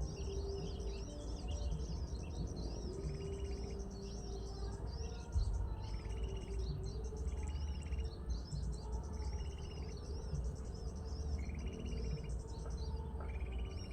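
Many small birds chirping and calling together in quick overlapping notes, with a short buzzy call repeating every second or two, over a steady low rumble.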